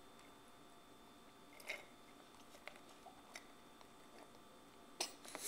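Near silence broken by a few faint soft clicks and smacks of a small child chewing food. A louder noise breaks in near the end.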